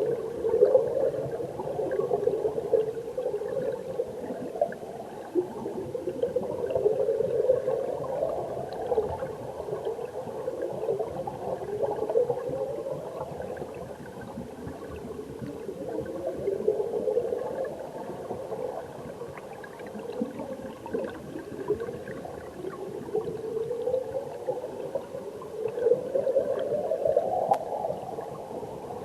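Mountain stream heard from underwater: steady gurgling and bubbling of flowing water, with a rising tone that sweeps upward about every five seconds.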